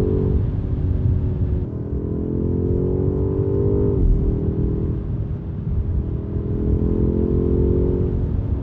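BMW M5 Touring G99's twin-turbo V8 pulling hard under acceleration: its note climbs steadily, drops sharply at an upshift about four seconds in, then climbs again through the next gear.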